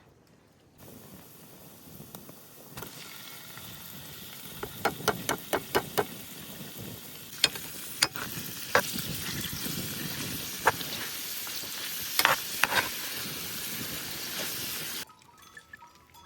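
Food sizzling as it fries in a pan, with a utensil stirring and knocking against the pan in quick clusters of clicks. The sizzle starts about a second in, grows louder, and cuts off suddenly near the end.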